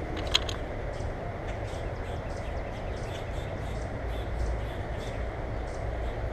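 Small birds at a feeder, with many short high chirps or ticks scattered throughout over a steady low rumble, and one sharp click about a third of a second in.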